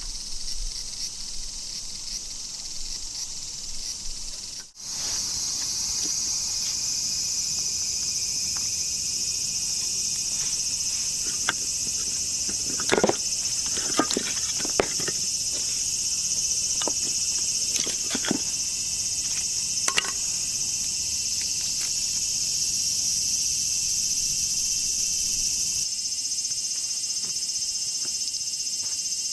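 Steady high-pitched chorus of summer insects, with a brief break near the start. A handful of sharp clicks and knocks come in the middle.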